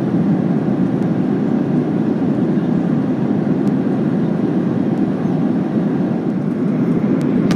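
Steady low roar of engine and airflow noise inside the economy cabin of a Boeing 737-800 during its descent.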